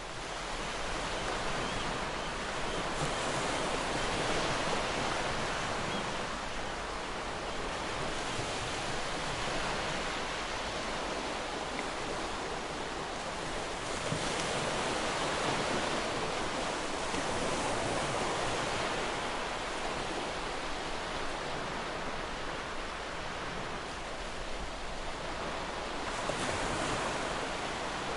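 Ocean surf: a continuous wash of breaking waves that swells louder every ten seconds or so and then eases.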